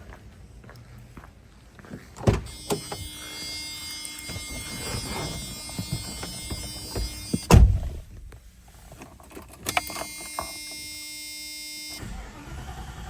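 Car interior sounds ahead of a cold start of a 1990 Mercedes 560SEL: a door thud about two seconds in, then a steady electric whine, like a small motor, lasting about five seconds and cut off by a louder thud. The whine comes back for about two seconds near the end.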